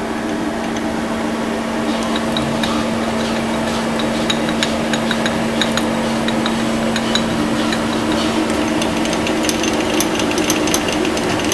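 Monforts KNC 602 CT CNC lathe switched on and humming steadily, with scattered light clicks and taps from about two seconds in as it is worked from its controls.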